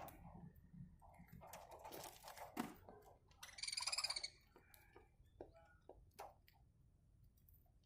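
Budgerigar cracking sunflower seeds with its beak, making faint scattered clicks, with one short buzzy chirp about three and a half seconds in.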